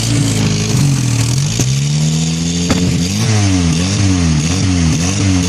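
Car engine through a loud aftermarket exhaust, revving. The pitch climbs in one long rise, a sharp crack comes about two and a half seconds in, and then quick throttle blips rise and fall about twice a second.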